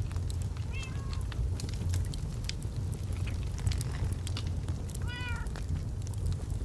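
Log fire crackling with many short sharp pops over a steady low rumble. A cat meows twice over it, a short call about a second in and a longer, clearer one about five seconds in.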